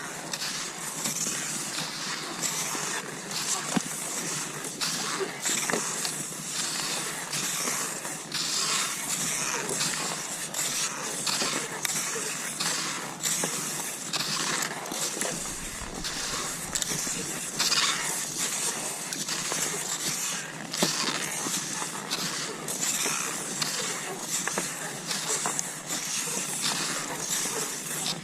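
Cross-country skis swishing over snow in a steady stride, with a hiss from the gliding skis and repeated short strokes from each kick and pole plant.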